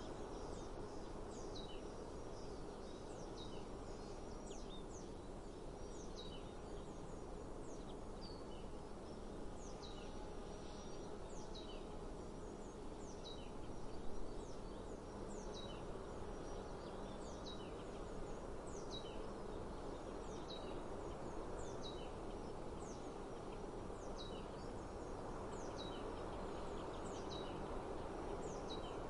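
A bird repeating a short, high, downward-sliding note about once a second over a steady rush of outdoor background noise. A brief louder sound comes about halfway through.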